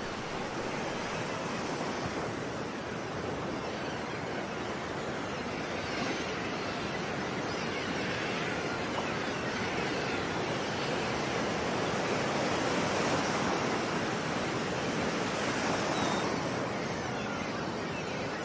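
Ocean surf washing ashore, a steady rush of waves that swells gradually through the middle and eases off near the end.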